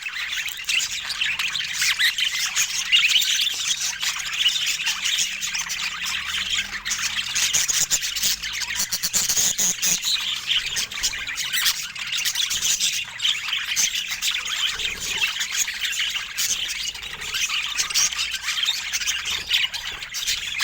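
Budgerigars chattering continuously, with many short chirps and squawks overlapping.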